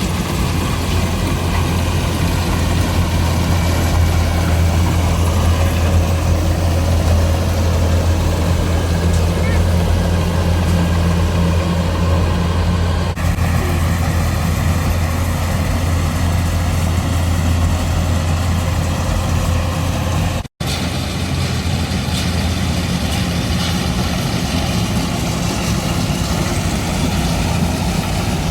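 Combine harvester engine running steadily with a deep, even hum over machinery noise, dropping out for an instant about two-thirds of the way through.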